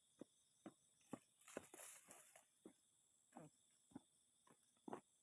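Crickets chirring steadily, with a dozen faint, irregular taps and knocks and a brief rustle about one and a half seconds in.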